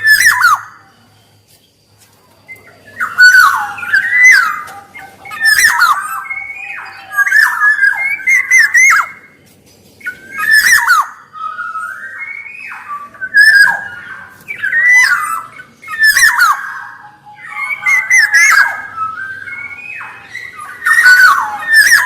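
Black-naped oriole singing: short fluty whistled phrases that glide up and down, mixed with harsh rasping notes, repeated every one to two seconds after a brief pause near the start.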